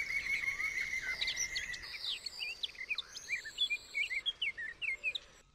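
Birds chirping: a fast, steady trill for about the first two seconds, then a run of short, varied chirps that stops shortly before the end.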